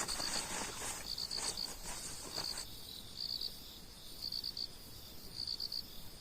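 A cricket chirping in short groups of three or four pulses, roughly one group a second. A rustling noise under it stops about two and a half seconds in.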